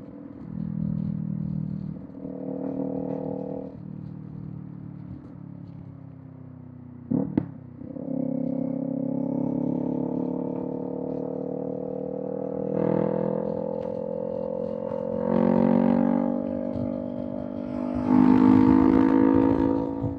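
Kawasaki Z400's parallel-twin engine through a Villain M1 aftermarket exhaust, pulling under throttle with the revs rising and swelling several times. A short, sharp crack about seven seconds in.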